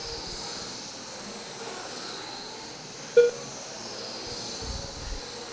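Electric RC racing trucks with 21.5-turn brushless motors running laps: faint motor whines rising and falling over a steady hiss. A short beep about three seconds in.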